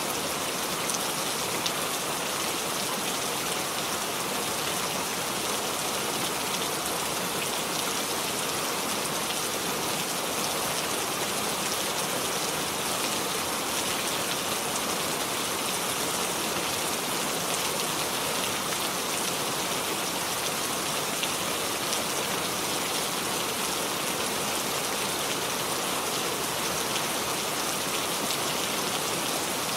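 Steady rain falling: an even hiss of many drops, with no change in strength.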